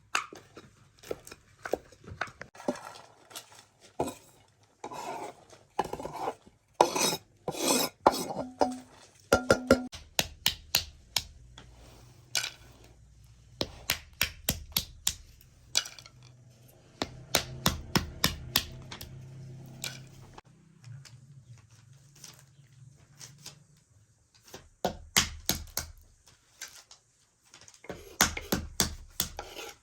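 Kitchen pots, dishes and utensils clattering and clinking as food is handled and prepared: a long irregular run of sharp knocks and clinks, a few ringing briefly.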